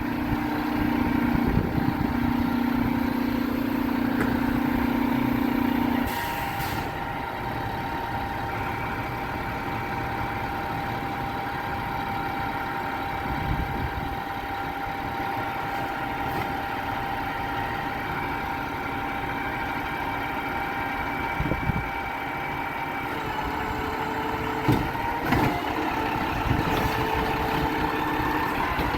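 Garbage truck's engine running at idle with a steady whine. A lower drone drops away about six seconds in, and a few sharp knocks come near the end.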